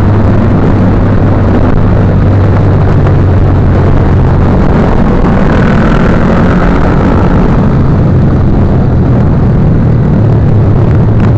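Motorcycle engine running at a steady speed under loud, dense rushing noise, with two sharp clicks near the end.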